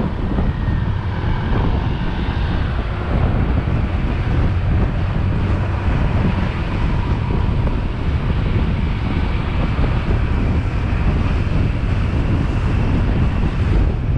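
Wind rushing over the microphone of a moving motorbike, with the motorbike's engine running steadily underneath.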